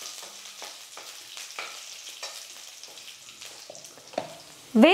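Raw peanuts, chopped garlic and curry leaves sizzling in hot oil in a kadai, with a metal spatula stirring and scraping the pan several times.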